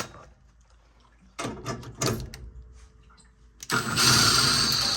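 Some handling clatter, then a handheld power tool runs loudly and steadily for just over a second near the end and stops abruptly.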